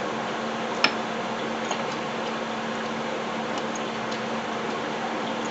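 A few sharp metallic clicks of hand tools working a transmission mount bolt, the loudest about a second in, over a steady low hum.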